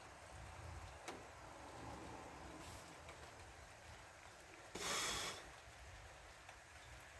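Faint steady rain with a low rumble underneath, a click about a second in, and a short loud hiss lasting under a second about five seconds in.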